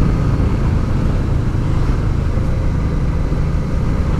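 Honda Deauville V-twin motorcycle running steadily on the move, with wind noise over the microphone.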